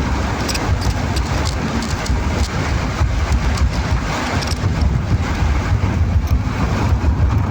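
Heavy rain hissing, with many sharp drop hits, over a steady low rumble of a vehicle.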